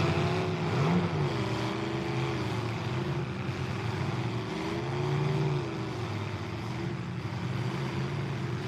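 Engines of demolition derby mini trucks and a minivan running and revving, their pitch rising and falling several times as they manoeuvre, over a steady wash of arena noise.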